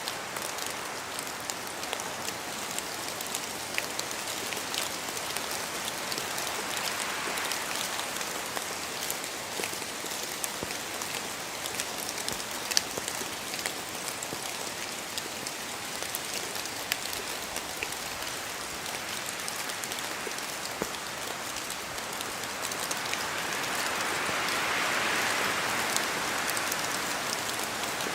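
Steady rain in a forest, with many sharp drops pattering from the trees. Wind gusts swell through the trees about seven seconds in and again for the last few seconds, raising the level.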